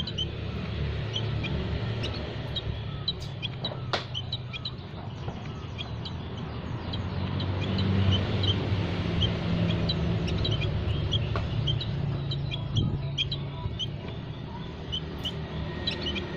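A group of small aviary birds chirping continuously in many short, high, scattered notes, over a steady low rumble.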